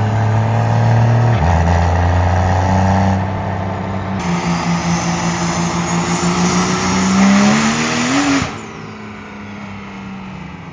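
Truck engine making a pull on a chassis dyno: it runs hard under load, gets louder about four seconds in, and climbs in pitch until it lifts off sharply about eight seconds in. A high whistle then falls away as the engine drops back to a lower run.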